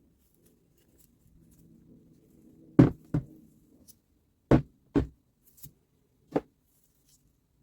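A series of sharp knocks, the first two pairs loudest, starting about three seconds in: six in all over roughly three and a half seconds.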